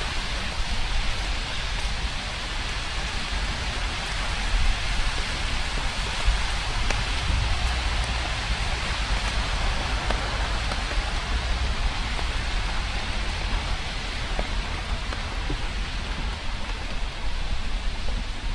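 Steady rain falling and pattering on surfaces, a continuous even hiss, with a low rumble underneath.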